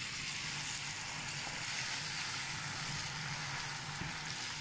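Ginger-garlic paste sizzling steadily in hot oil among fried onions in a frying pan while it is stirred, with a low steady hum underneath.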